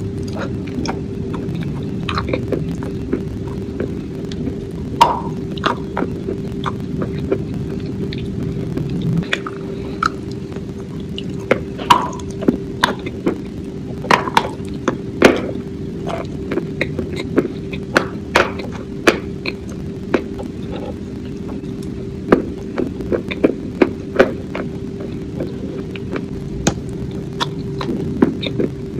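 Close-miked biting and chewing of a crunchy, crumbly food: sharp, irregular crunches, several close together in places, over a steady low hum.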